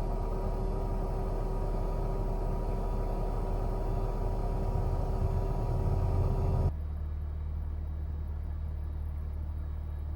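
Toyota HiAce van heard from inside the cabin: a steady engine and road rumble with the air conditioner blowing, cooling the hot cabin. About two-thirds of the way in the sound changes abruptly to a steadier, lower hum.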